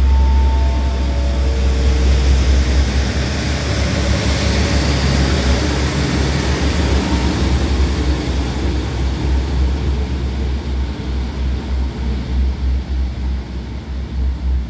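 Two-car diesel railcar train pulling out of a station and moving away: a steady low engine drone with wheel and rail noise that fades gradually as it leaves. A few short tones step down in pitch in the first two seconds.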